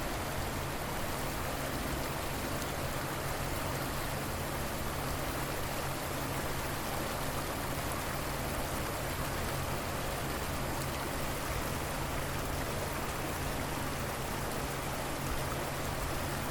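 River water flowing steadily, an even rushing with a steady low hum underneath.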